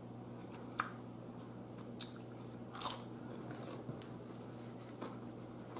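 Close-up eating sounds of fried chicken dipped in sweet and sour sauce: a few crisp crunching bites and chewing, the loudest about three seconds in, over a steady low hum.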